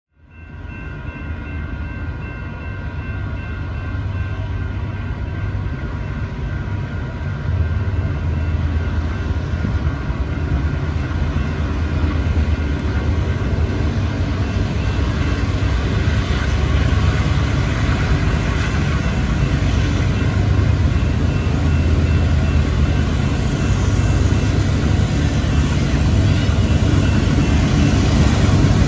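Union Pacific freight train approaching on diesel locomotives, a low rumble that fades in and grows gradually louder as the train comes closer.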